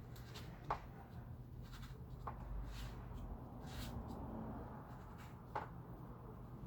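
Soft rubbing and handling noises with a few short, sharp clicks, over a low steady hum.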